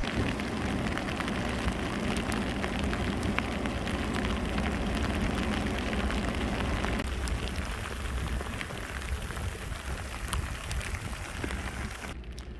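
Blizzard wind rumbling on the microphone, with a steady hiss and many small ticks of blowing snow striking; it eases slightly about halfway through.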